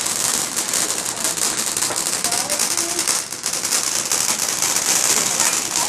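Ground fountain firework hissing and crackling steadily in a dense spray of fine pops, dipping briefly about halfway through.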